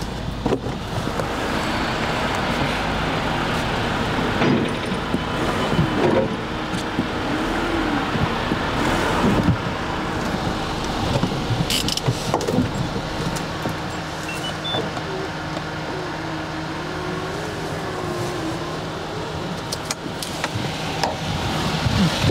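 A motor-vehicle engine idling steadily, with a few short knocks and clicks.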